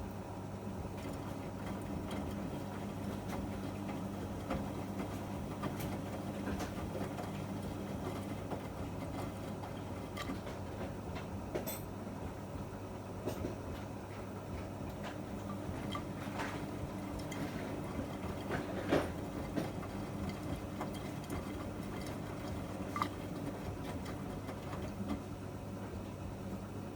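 Miele MedicWash W2585 front-loading washing machine running a wash cycle: a steady motor hum with scattered clicks and knocks from inside the turning drum.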